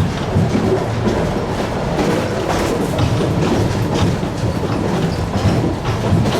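Fukui Railway tram running along the track: a steady rumble of wheels on rail, with irregular clicks as the wheels pass over rail joints.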